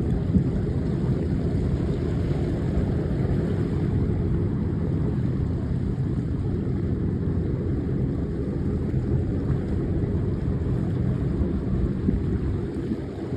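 Sandbanks chain ferry under way: a steady, low rumble.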